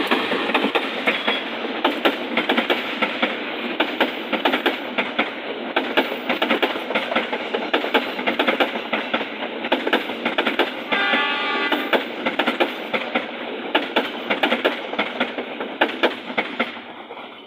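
Train passing close by, its wheels clacking rapidly over the rail joints, with a short horn blast about eleven seconds in.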